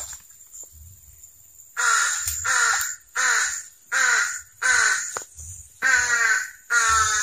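A bird calling about seven times in a steady series starting about two seconds in, each call falling slightly in pitch.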